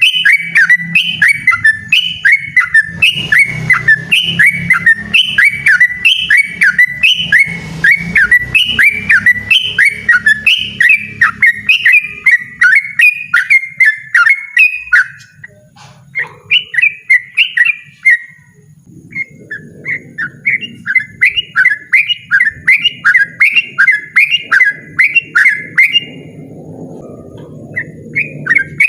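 Yellow-vented bulbul singing a fast, loud run of repeated bubbling notes, about two to three a second, with short breaks about halfway through and near the end.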